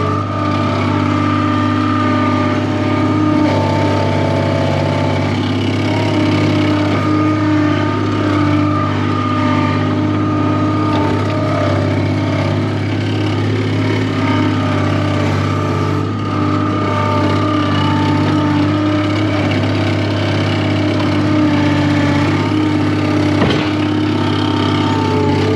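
Skid steer engine running steadily: a constant low hum with higher tones that swell and fade over it.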